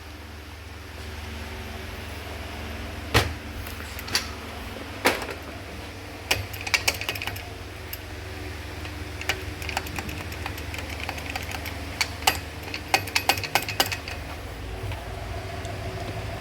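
Scattered metallic clicks, taps and knocks of tools and parts as a car starter motor is taken apart by hand, over a steady low hum.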